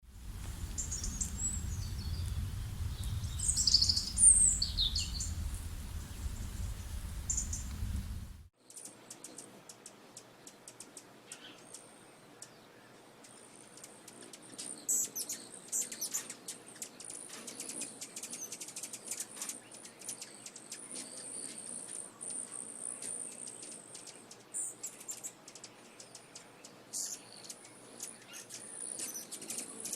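Small birds chirping and calling with high, quick notes. For the first eight seconds or so a low rumble like wind on the microphone runs under the calls; then the sound cuts to a quieter recording of rapid high chirps and clicks over a thin, sustained high trill.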